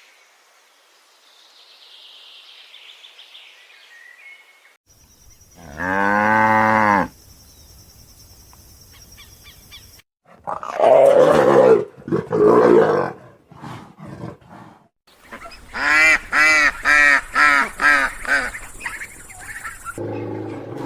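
A string of animal calls from different clips. First a long pitched call, then several loud harsh calls, then a quick run of about a dozen short pitched calls near the end.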